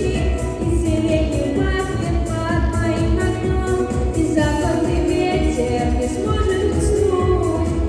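A song: a voice singing over backing music with strong bass and a steady beat.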